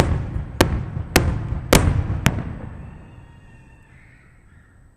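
Fireworks going off: five sharp bangs about half a second apart, each followed by a low rumble that dies away.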